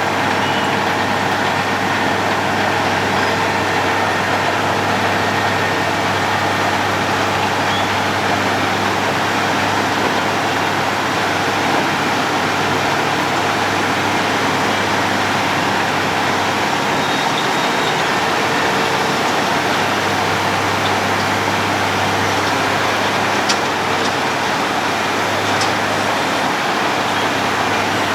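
Road planer (cold milling machine) at work: a steady, loud heavy-machine drone with dense rough noise over it, unchanging throughout.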